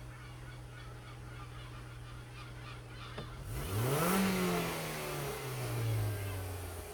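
Ford Mondeo Mk3 2.0 Duratec HE inline-four petrol engine (CJBA) idling steadily, then revved once about halfway through: the pitch climbs quickly and sinks back to idle over about two seconds.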